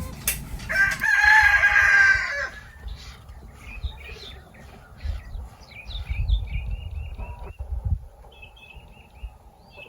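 A rooster crows once, starting about a second in and lasting about a second and a half. Small birds chirp in short high notes after it.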